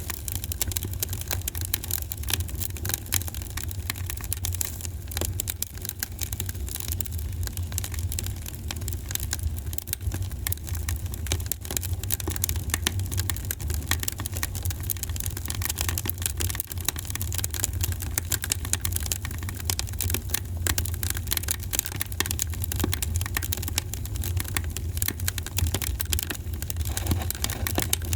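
Wood fire crackling in a fireplace: a dense, irregular stream of small pops and snaps over a steady low rumble of burning.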